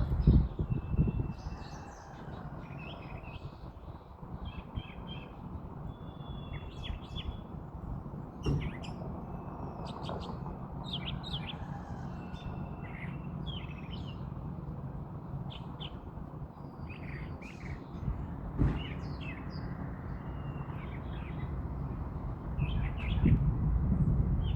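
Wild birds chirping and calling, several short whistled notes and chirps every second or so, over a steady low rumble of wind on the microphone, with stronger gusts at the start and again near the end.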